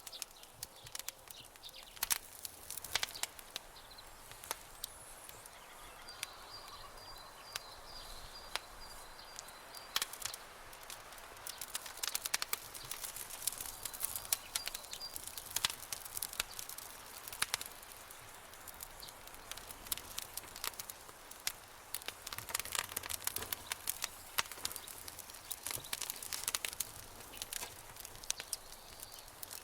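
Campfire crackling, with irregular sharp pops over a soft hiss. A faint, high, rapidly repeated chirping runs from about six to ten seconds in.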